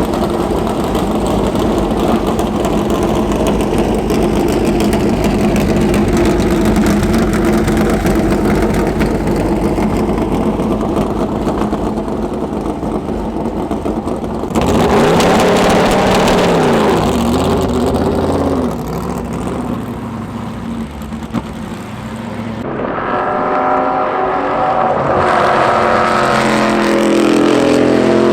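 Chevrolet Corvette Daytona Prototype race cars' V8 engines running: a steady engine note for about half the time, then a car passing close and loud with its pitch bending down, and near the end another engine revving up with rising pitch.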